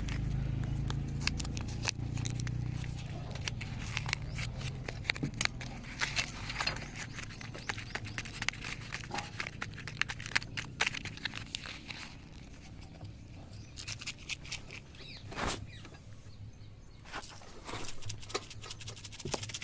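Tractor engine running low and steady, fading away after about seven seconds, with frequent sharp clicks and knocks throughout.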